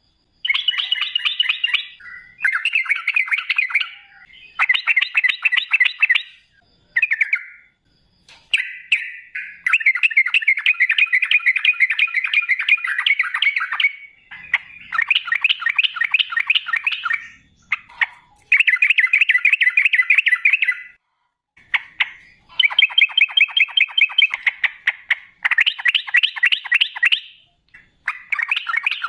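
Yellow-vented bulbul (trucukan) singing in long, rapid, rolling chattering phrases, one after another with short breaks between them.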